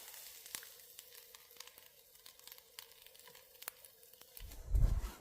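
Faint, scattered crackles and snaps of an open wood fire. Low thuds come in near the end.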